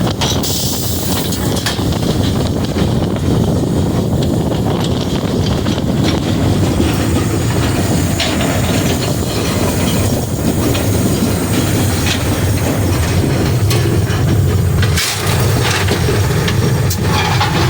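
Frisco 1630, a 2-10-0 steam locomotive, running along the line, heard from inside its cab: a loud, steady rumble and rattle of the engine and its wheels on the rails, with occasional sharp clanks.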